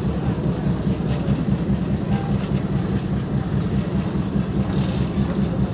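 Passenger train running along the track, heard from the side of a carriage: a steady low rumble of the wheels on the rails.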